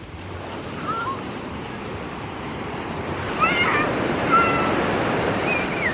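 Sea surf washing up the beach, building over a few seconds. Short high shouts and squeals from children playing in the water come through over it, once near the start and several times in the second half.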